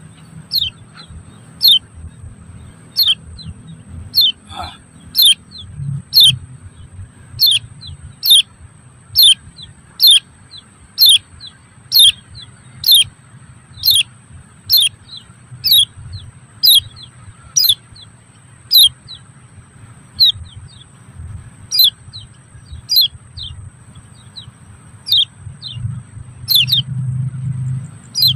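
A bird calling over and over: short, sharp chirps that sweep steeply down in pitch, about one or two a second, with brief gaps between runs.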